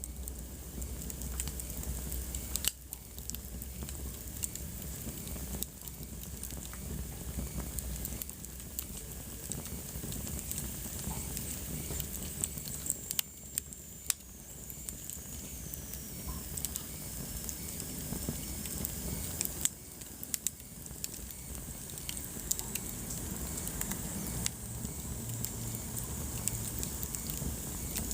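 Wood fire burning in a fireplace: a steady low rumble and hiss of the flames with frequent sharp crackles and pops, a few of them louder. Around the middle a faint high whistle slowly falls in pitch.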